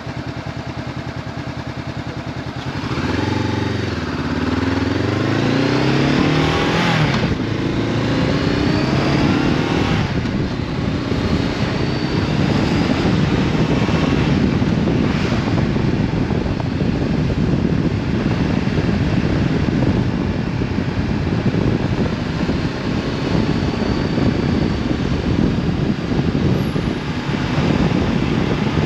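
Honda CB500F's parallel-twin engine with an Akrapovic exhaust ticking over, then pulling away about three seconds in. It revs up through two quick gear changes and settles into steady riding, with engine note and wind rush mixed together.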